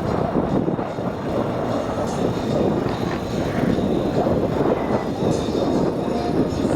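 Loud, steady rumble of a high-speed vehicle's engine running, with no clear pitch.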